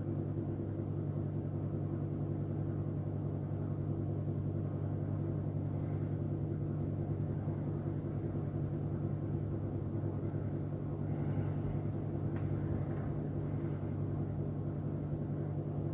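Steady low mechanical hum holding an even pitch, with a few faint, brief rustles over it.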